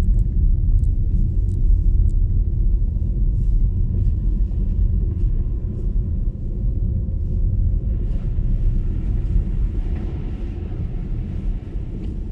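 Steady low rumble of tyre and road noise heard inside the cabin of an MG ZS EV electric car driving on a snowy road, with a few faint ticks in the first couple of seconds.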